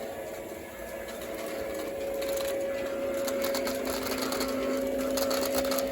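O-gauge model train running on track: a steady electric motor whine with a rapid clatter of wheels over the rails, growing louder about two seconds in as the train comes closer. A second, lower motor tone joins about halfway.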